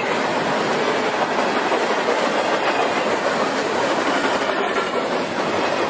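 A BNSF freight train of empty double-stack well cars passing at speed, its steel wheels on the rails making a steady, loud rolling clatter.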